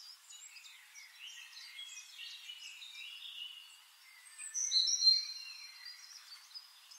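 Small birds chirping and twittering in quick short calls, with one louder whistled call about four and a half seconds in.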